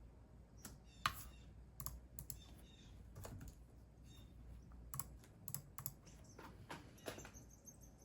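Computer keyboard typing: irregular, quiet key clicks, with a louder keystroke about a second in.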